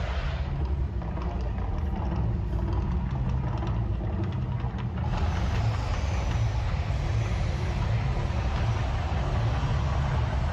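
Deep, steady rumble from the Mirage volcano show's eruption effects, with a broad rushing noise that swells from about halfway through.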